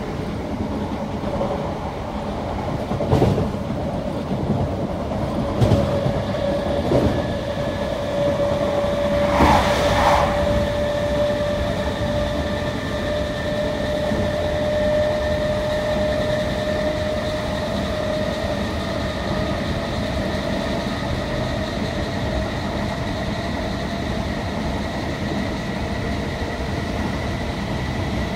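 Northern Class 319 electric multiple unit running at speed, heard inside the passenger saloon: a steady rumble of wheels on track with a held whining tone. A few sharp knocks stand out in the first ten seconds.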